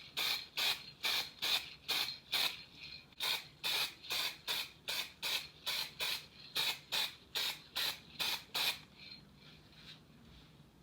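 Rhythmic hand rubbing strokes, a little over two a second, typical of sanding or scrubbing a small part of the model car; they stop about nine seconds in.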